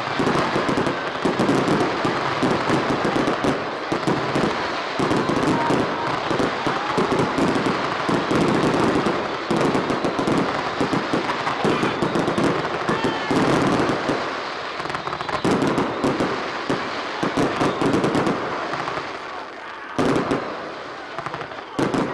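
Aerial fireworks display: a dense, rapid barrage of bangs and crackles that thins out and gets quieter in the second half, with a last few sharp bangs near the end.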